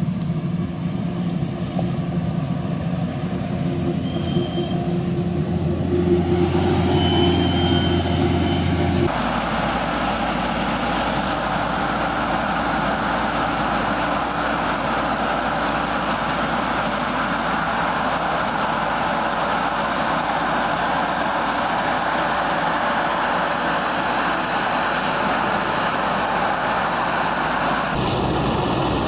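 A vehicle engine running steadily, its sound changing abruptly about nine seconds in and again near the end, as the footage cuts between clips.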